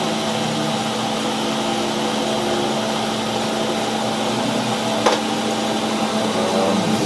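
A machine running steadily with a constant hum, and a single sharp click about five seconds in.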